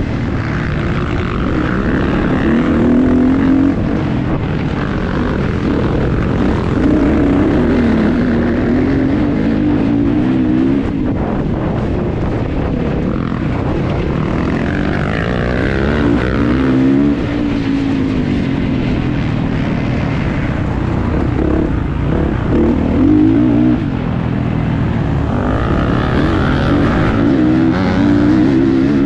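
Kawasaki KX450's single-cylinder four-stroke engine being ridden hard in a motocross race, its note climbing and dropping again and again as the rider opens and closes the throttle and shifts.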